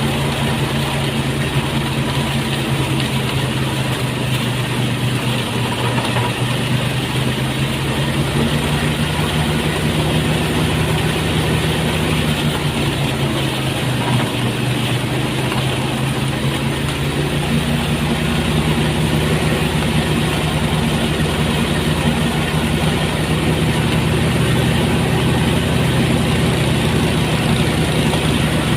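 Motorised rice threshing machine running steadily with its small engine, the engine note shifting and wavering for a few seconds around the middle before settling again.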